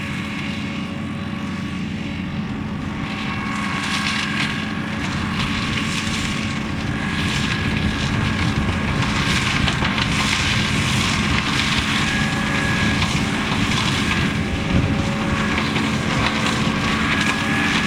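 Valtra tractor's diesel engine running steadily under load, driving a McConnel flail hedge cutter whose spinning head gives a steady whine, with rough crackling as the flails chop through hedge growth.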